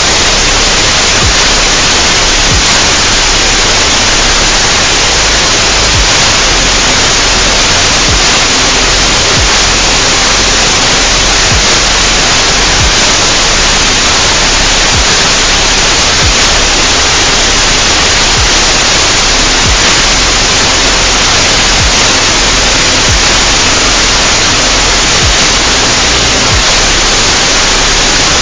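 Steady synthesized noise, a bright even hiss, with low hum tones underneath that shift in pitch every second or so.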